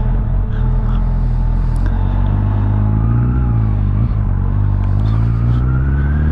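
Suzuki Bandit's inline-four engine running on the move, heard from the rider's seat; its note dips around the middle, then rises steadily toward the end as the bike accelerates.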